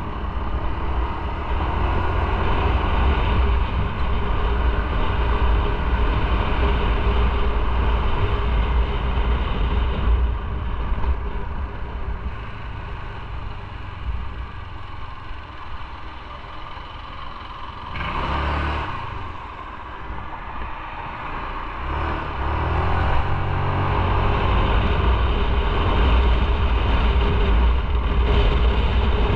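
Motorcycle riding, with engine and wind noise on the microphone. The noise falls away through the middle, then builds again from about two-thirds of the way in as the bike speeds up.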